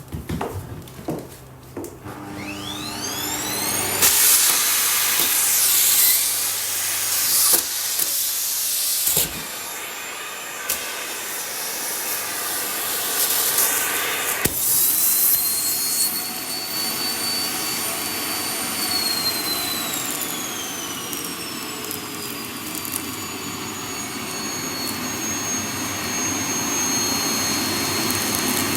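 Vacuum cleaner switched on, its motor whine rising about two seconds in, then running loudly with a rushing hiss. Past the middle, the high whine slides down to a lower pitch and holds there.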